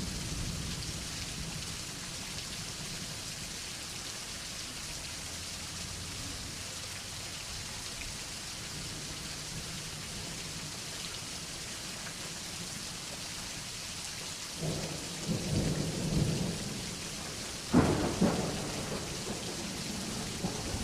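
Thunderstorm: steady rain falling, with thunder rumbling in about three-quarters of the way through and then a sharp, loud thunderclap that rolls on.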